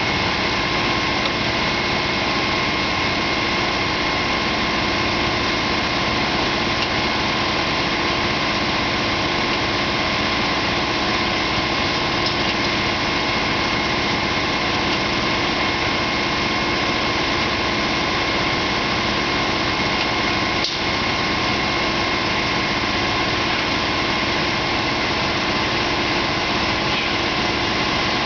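Tow truck's engine running steadily at constant speed, with a steady whine over it. The sound breaks very briefly about three-quarters of the way through.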